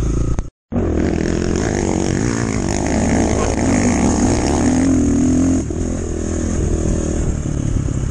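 Enduro motorcycle engine running under throttle while riding, its pitch rising and falling as the revs change. The sound cuts out completely for a moment about half a second in.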